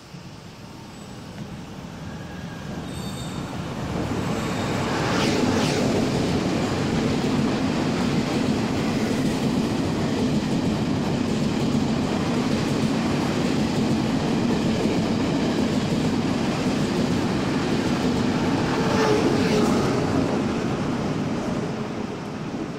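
Taiwan Railway Tze-Chiang express, with electric locomotive E1010 leading, passing through a station at speed. The rumble and rail noise build over the first few seconds, hold steady as the carriages go by, and begin to fade near the end. Sharper rushes come about five seconds in and again near twenty seconds.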